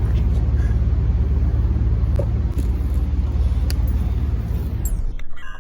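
Wind rumbling on the camera microphone while riding a BMX bike, with a steady hiss of rolling and air; the higher hiss cuts out abruptly near the end.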